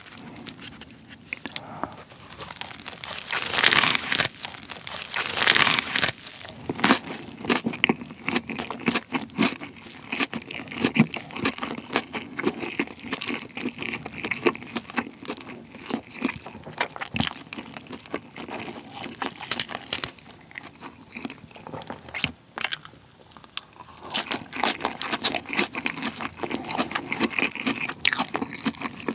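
A person biting into and chewing a large fried chicken burger up close. The crisp fried chicken patty crunches, loudest in a cluster of bites a few seconds in, then gives way to steady crunchy chewing.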